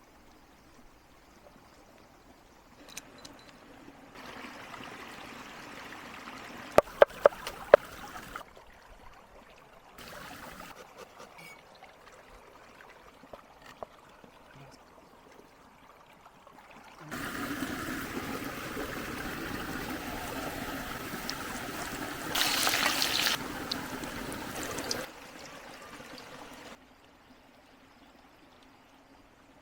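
Water trickling and pouring in several separate stretches that start and stop abruptly, the longest and loudest in the second half. A few sharp clicks come about seven seconds in.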